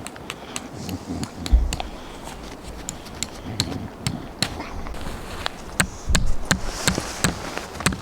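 Irregular series of sharp clicks and knocks of hard objects being handled, with a heavy thump about one and a half seconds in and a cluster of heavier thumps around six seconds in.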